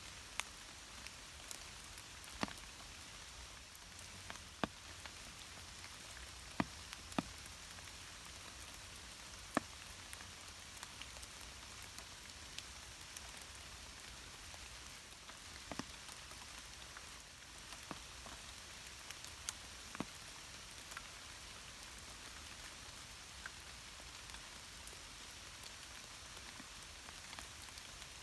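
Light rain falling: a steady soft hiss with irregular sharp ticks of single drops landing close by, every second or two.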